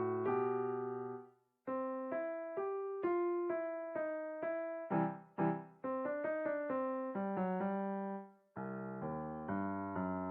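Solo piano playing a steady string of notes and chords, about two a second, breaking off briefly about a second and a half in and again past eight seconds.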